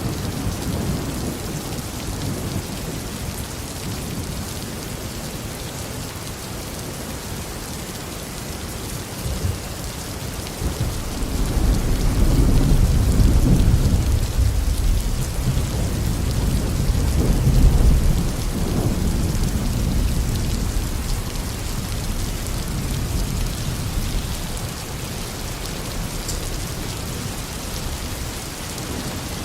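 Steady heavy tropical rain with a long rolling rumble of thunder that builds about a third of the way in, is strongest in the middle, then fades out.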